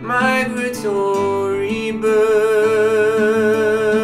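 Folk song: a male voice sings the word "migratory", holding a long note near the end, over strummed acoustic guitar.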